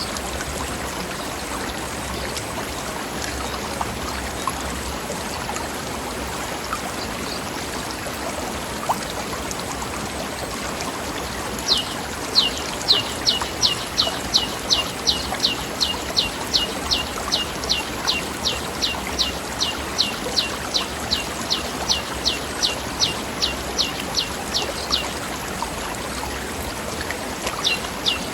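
Mountain stream flowing over rocks, a steady rush of water. About halfway through, a bird gives a long run of quick, high notes, each sliding down, about three a second for some thirteen seconds, and starts the run again near the end.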